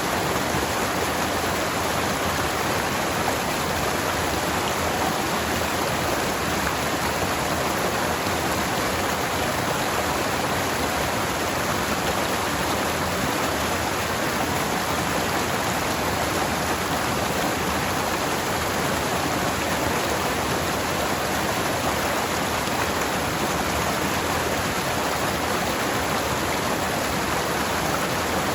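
Forest stream flowing steadily over rocks, a constant rushing of water with no breaks.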